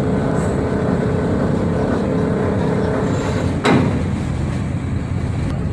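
Steady low rumble of a ferry's engines, with one sharp knock about three and a half seconds in.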